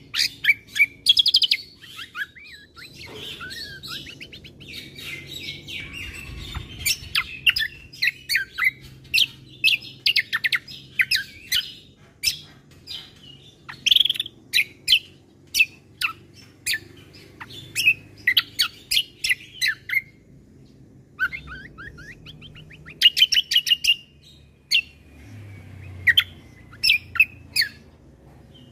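Kecial kombo (cucak kombo) songbird singing a fast, varied run of sharp chirps, whistles and trills, with a short break about twenty seconds in.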